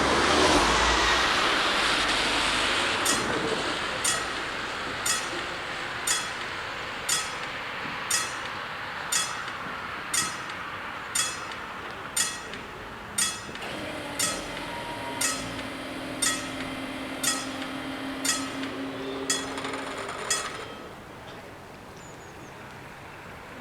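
Level crossing bells striking about once a second, after the rushing noise of a passing electric train fades over the first few seconds. A steady low hum joins the strikes from about halfway, and the strikes stop about twenty seconds in.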